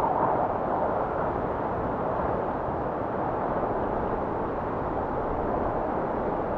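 Blizzard wind blowing steadily, a low, even rushing, with a faint whistle right at the start that fades away.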